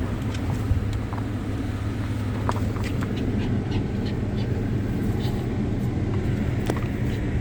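Truck driving, with steady engine and road noise heard from inside the cab and a few scattered light clicks.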